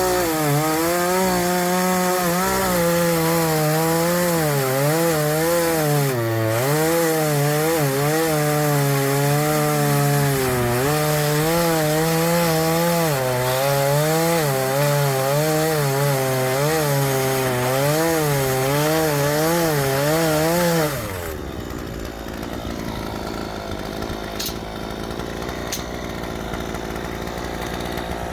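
Gas chainsaw cutting through the end of a wooden utility pole at full throttle, its engine pitch wavering as the chain loads and unloads in the wood. About two-thirds of the way in the throttle is let off and the engine drops to idle.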